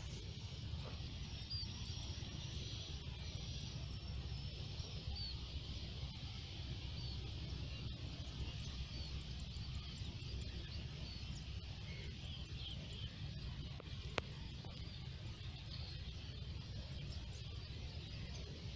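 Birds chirping in short calls every second or two over a steady low rumble of outdoor background noise, with one sharp click about fourteen seconds in.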